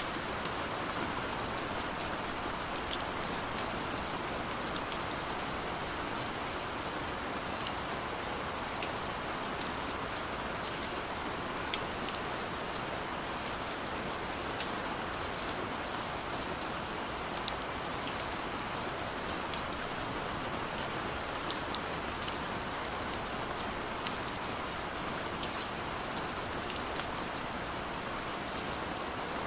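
Steady gentle rain falling, a constant hiss with scattered individual drops ticking throughout.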